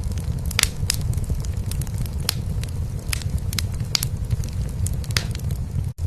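Wood fire in a fireplace crackling with frequent sharp pops, over a low, steady cat purr. The sound cuts out for an instant near the end.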